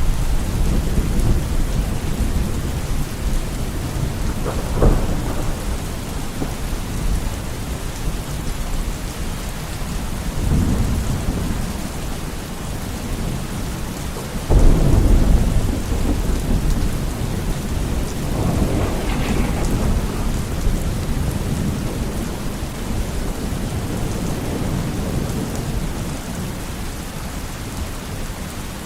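Steady heavy rain with thunder rolling through it: a sharp crack about five seconds in, a sudden loud clap about halfway, and several lower rumbles between.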